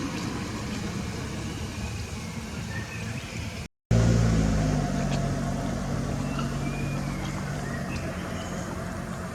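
A motor vehicle's engine running steadily. After a brief cut just under four seconds in, it comes back louder and slowly eases off, with a few faint high chirps above it.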